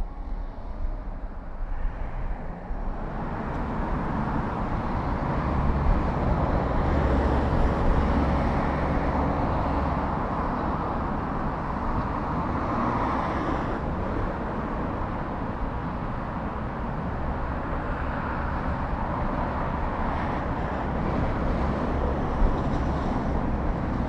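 Steady road traffic noise of motor vehicles on a city street, a continuous rush of engines and tyres with a low rumble. It builds over the first few seconds and swells twice as vehicles pass.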